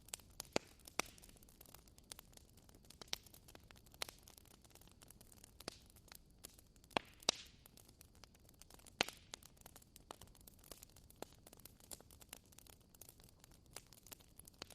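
Wood bonfire crackling: faint, irregular sharp pops and snaps, a few of them louder, over a low steady hiss.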